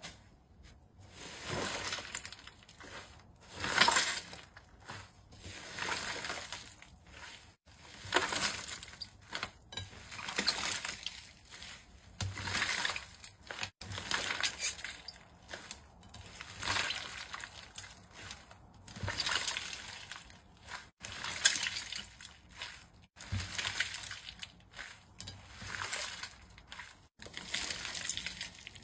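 Slime being squeezed and pressed by hand, squelching in repeated swells about every two seconds.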